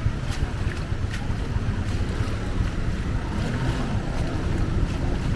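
Strong floodwater rushing and sloshing around wading legs, with small irregular splashes about once or twice a second over a steady low rumble of wind on the microphone.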